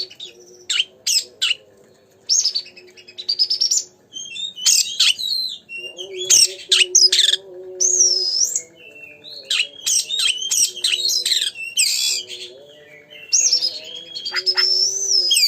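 Oriental magpie-robin (kacer) in full song: a rapid, varied run of loud whistles, sweeping slurred notes and harsh chattering phrases, with brief pauses about two and four seconds in.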